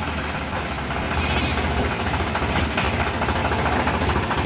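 Tractor's diesel engine running steadily, with a fast, even pulsing and a low rumble.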